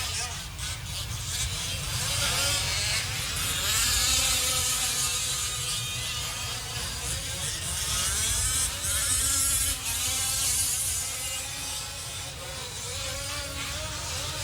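Several 5th-scale gas RC race trucks' small two-stroke engines buzzing around the track, their pitch rising and falling as they rev up on the straights and back off for the corners.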